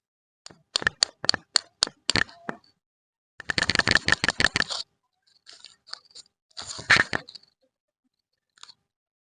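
Plastic candy wrapper crackling and tearing as it is unpacked: a run of sharp crackles, then a dense burst of crinkling in the middle, another shorter burst a few seconds later, and one last faint crackle near the end.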